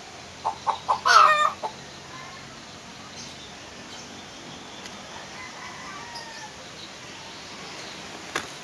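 Hill myna mimicking a chicken: a few short clucks and a louder falling call about a second in, then quiet apart from a single sharp click near the end.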